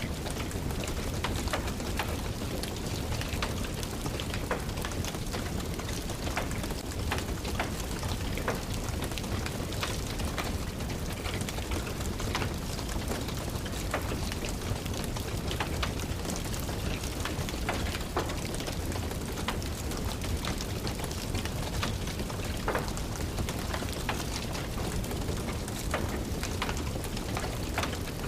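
Steady rain with a wood fire crackling in a fireplace: scattered sharp pops and clicks over an even rushing.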